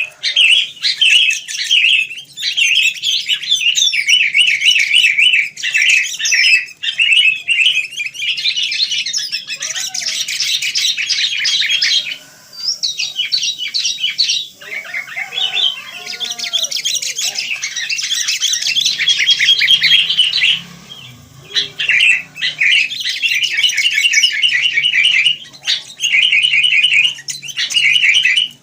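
Sooty-headed bulbuls (kutilang) chirping busily in rapid, overlapping runs of high chatter, with a few brief pauses.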